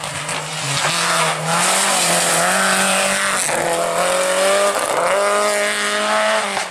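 Rally car engine at full throttle, its pitch climbing through the revs and dropping sharply at gear changes about three and a half and five seconds in.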